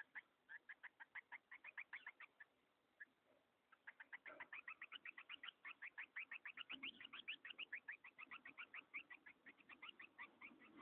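Green-winged saltators (trinca-ferro) at the nest making a rapid series of short, high chirps, about seven a second. The series breaks off about two seconds in and starts again a second and a half later, running on until near the end.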